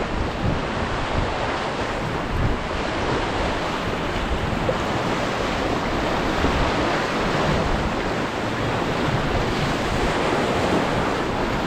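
Whitewater rapids rushing around a paddled raft, a steady loud roar of water, with wind buffeting the microphone.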